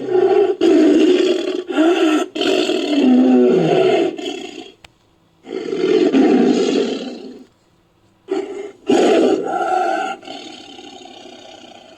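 Bengal tiger roaring in three long bouts separated by short silences, the last fading off quieter toward the end.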